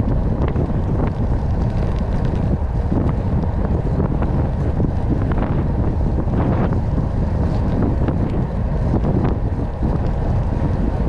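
Wind buffeting the microphone of a camera on a moving bicycle: a steady, heavy rumble of wind noise.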